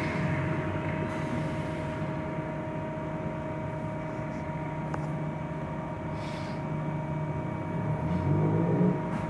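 Trolleybus running, heard from inside the cabin: a steady low rumble with a constant whining hum held at one pitch.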